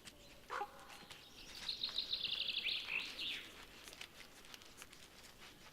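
A songbird singing a fast trill of repeated high notes, about a second and a half long, that drops in pitch at the end.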